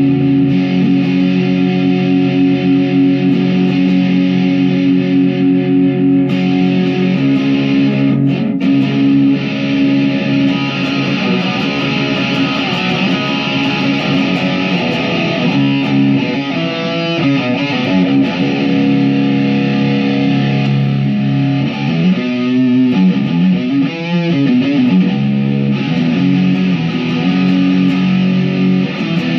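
Chapman SAR63 electric guitar played plugged in, holding long ringing chords. The chords change more often in the second half.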